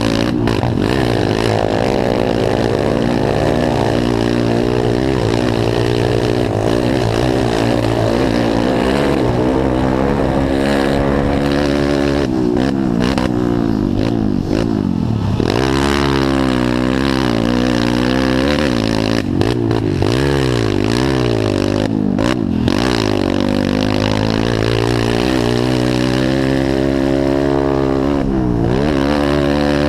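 Several small pit bike engines racing on a motocross track, revving up and down over and over as the riders work the throttle through the course.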